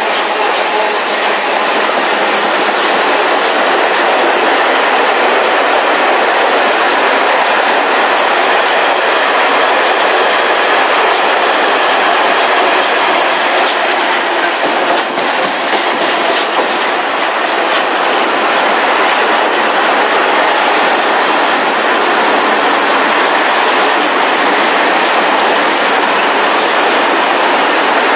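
Long freight train of covered STVA car-carrier wagons rolling past close by: a loud, steady rush of wheels on the rails with clickety-clack over the track.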